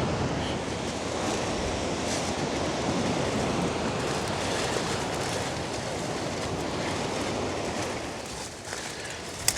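Pacific surf breaking on the beach below, a steady wash of noise. One sharp click near the end.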